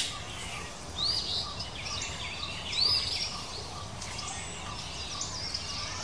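Small birds chirping: two short, high, arched chirps, about a second in and again near three seconds, among fainter thin high calls, over a low steady background noise.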